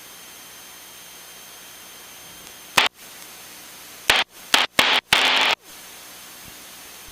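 Loud hissing bursts of static on the aircraft radio: one short burst about three seconds in, then three or four more in quick succession, the last about half a second long, each cut off sharply. This is the garbled noise of two stations transmitting at once and blocking each other. A steady low hiss runs underneath.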